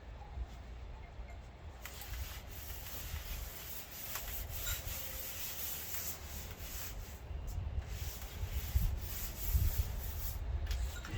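Irregular rubbing and scraping that comes and goes, over low thuds that grow heavier in the second half: hands working on the car.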